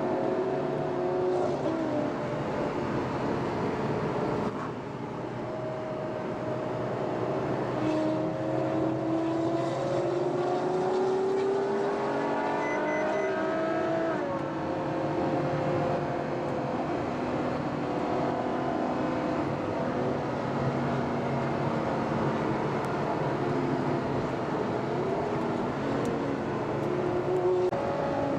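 Ferrari FF's V12 engine heard on board while driving, mostly steady. About halfway through its pitch climbs gradually for several seconds under acceleration, then drops abruptly.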